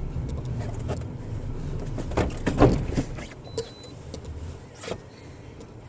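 Low rumble of a vehicle driving, with a burst of loud, sharp clattering knocks about two seconds in and a couple of single clicks after it.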